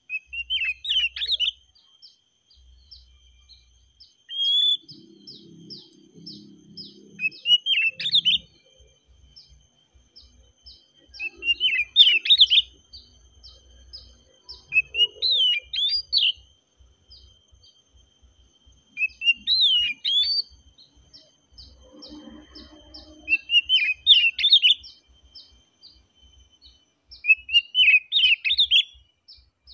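Oriental magpie-robin (kacer) singing: short, loud, warbled phrases at high pitch, seven of them, a few seconds apart. Behind them run a steady thin high tone and a fast series of faint short chirps.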